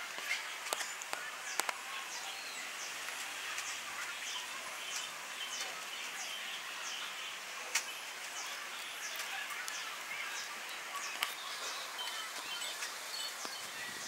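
High, thin chirps from a small bird, repeating steadily about twice a second, with a few sharp taps scattered through, the loudest ones near the start.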